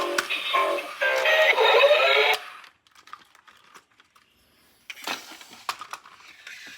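Electronic sound-chip tones from a toy with a rising glide, which cut off abruptly after about two and a half seconds. After a short silence comes a run of light, sharp plastic clicks.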